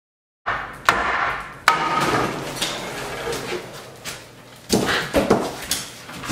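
Several sharp hammer strikes with scraping and clatter between them, as pieces of the old fireplace surround are knocked loose. Two strikes come in the first couple of seconds and a quick cluster of three about three seconds later.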